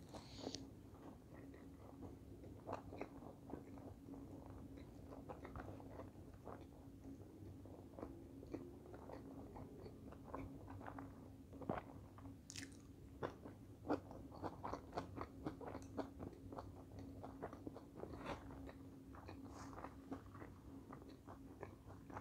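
Close-up mouth sounds of a person chewing and biting sushi rolls: soft wet chewing with many irregular small crunches and clicks. A faint steady hum runs underneath.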